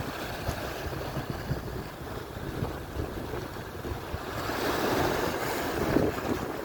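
Atlantic surf washing on the shore, a wave breaking and swelling up about four to six seconds in, with wind buffeting the microphone.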